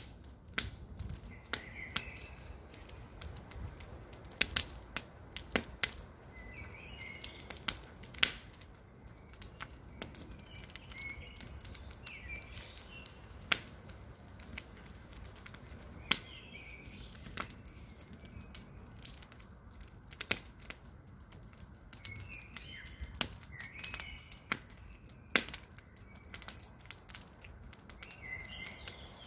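Campfire burning: wood crackling with irregular sharp pops and snaps over a low steady rumble, with short high chirps recurring every few seconds.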